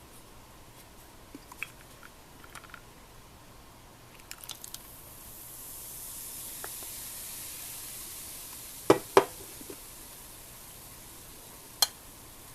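Kitchenware sounds: light clicks, then a hiss that swells up and slowly dies away. Two sharp clacks of dishes or utensils come close together partway through, and one more near the end.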